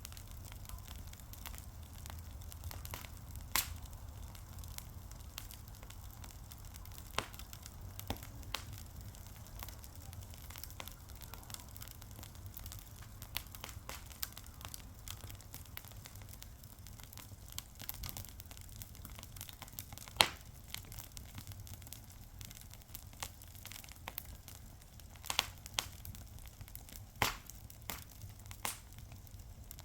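Wood fire crackling: irregular sharp pops and snaps scattered over a low, steady rumble and faint hiss, with a loud pop about two-thirds of the way through and a cluster of pops near the end.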